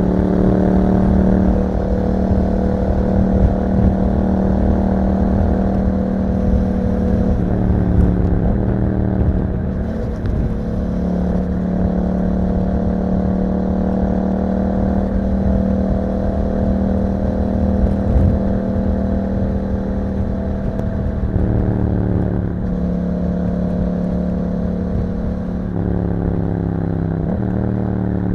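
A 2021 Yamaha MT-07's 689 cc parallel-twin engine running through an Akrapovic exhaust while riding. It holds mostly steady revs, and the engine pitch drops and builds again three times.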